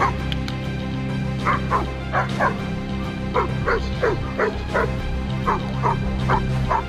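Beauceron dog barking repeatedly during an agility run, quick barks about three a second starting about a second and a half in, over steady background music.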